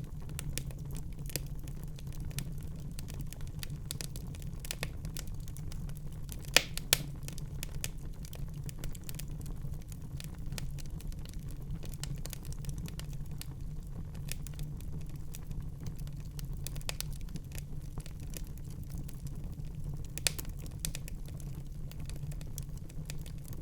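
Wood fire crackling in a fireplace: a dense, irregular run of small crackles over a steady low rumble, with a few louder pops about six to seven seconds in and again near twenty seconds.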